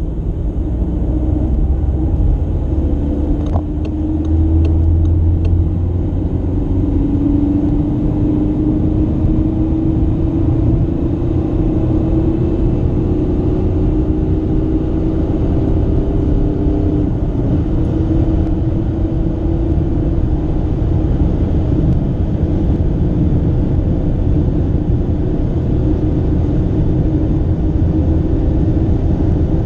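Remapped SEAT Ibiza 2.0 TDI four-cylinder turbodiesel accelerating hard, heard from inside the cabin. The engine note rises steadily in 4th gear, shifts up once to 5th partway through, then climbs again over rising road and wind noise.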